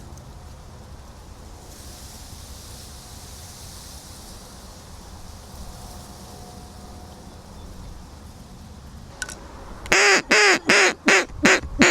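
Duck quacking: a rapid run of about six loud quacks starting about ten seconds in, after a stretch of faint background hiss.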